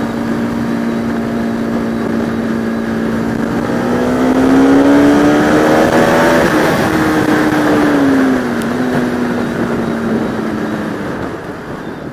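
Bajaj Pulsar RS200's single-cylinder engine running on the road over wind rush at the helmet. The revs climb and get louder about four seconds in, hold, then drop back about eight seconds in.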